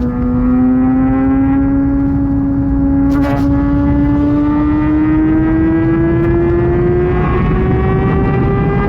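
Kawasaki Ninja ZX-6R inline-four with an SC-Project exhaust, held in one gear under throttle, its note climbing slowly and steadily as the bike accelerates. A constant low wind rush runs under it, and there is a brief click about three seconds in.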